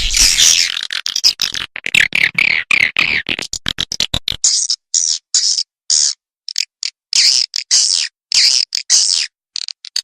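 Recorded swiftlet calls: fast, high-pitched chattering twitters in dense trains, breaking into short bursts with brief gaps about halfway through. This is a lure-call track played in swiftlet houses to draw the birds in and get them to roost.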